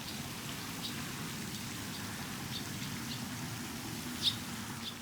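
A bird giving short, high chirps, about six of them spread out, the loudest about four seconds in, over a steady low background rumble.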